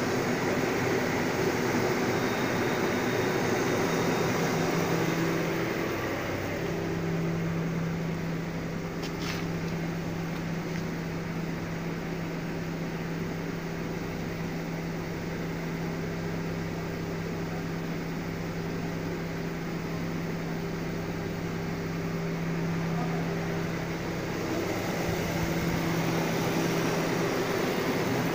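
BMW inline-six petrol engine idling steadily. It is quieter and more muffled through the middle stretch, when it is heard from inside the car's cabin, and clearer again near the end.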